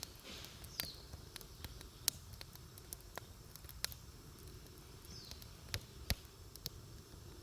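Wood campfire crackling: irregular sharp pops and snaps, a few louder ones, over a low steady rumble, with a couple of brief hisses.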